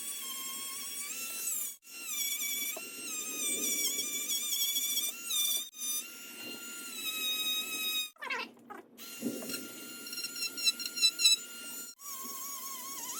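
Chicago Electric variable-speed rotary tool whining as it scrubs surface rust off a steel motorcycle fuel tank. Its pitch wavers and dips as the bit loads against the metal. A little past halfway it cuts out with a falling-then-rising glide, and a burst of rapid chattering comes near the end.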